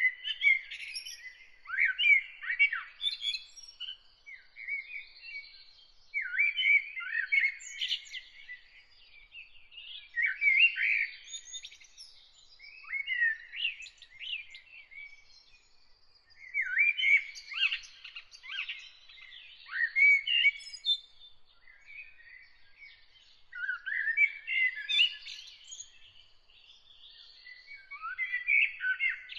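A songbird singing in short varied phrases of about two seconds each, with a pause of a second or two between them, repeated over and over.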